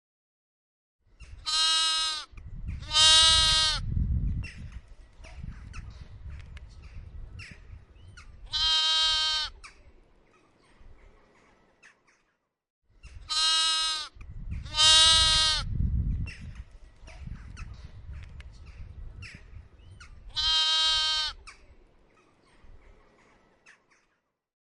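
Goat bleating: three calls, two in quick succession and then one after a pause, over low rumbling background noise. The same three-call sequence comes twice.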